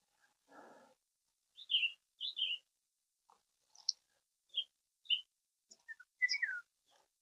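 A songbird calling: a string of short, separate chirps, several sliding down in pitch, coming every half second to a second. A brief faint rustle comes about half a second in.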